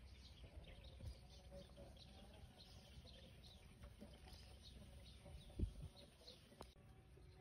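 Faint small-bird chirps, short and quick, repeating throughout, with a single low thump about five and a half seconds in.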